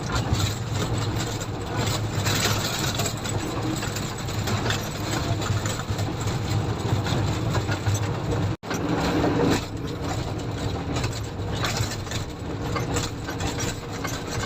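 Komatsu motor grader's diesel engine running steadily as the machine works, a low drone with mechanical noise over it. The sound drops out for an instant about eight and a half seconds in.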